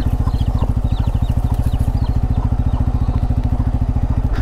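Bajaj Pulsar N250's single-cylinder engine idling with a steady, even exhaust beat of about thirteen pulses a second.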